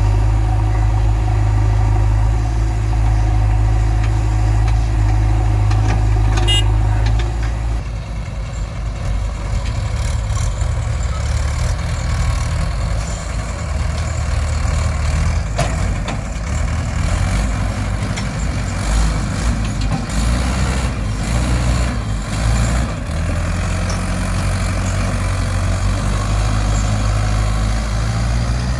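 Heavy diesel machinery engine running steadily with a low drone. About seven seconds in it turns slightly quieter and rougher.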